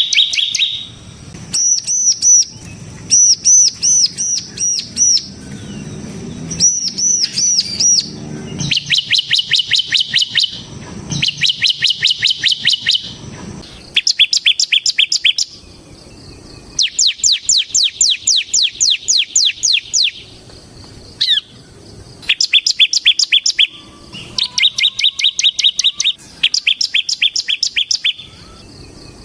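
Ciblek semi (a prinia) singing in fast trills of quickly repeated notes. The trills come in bursts of one to three seconds with short gaps, and a few phrases near the start are strings of higher, arched notes. This full-on 'ngebren' song is what keepers play as a lure and tutor for other ciblek.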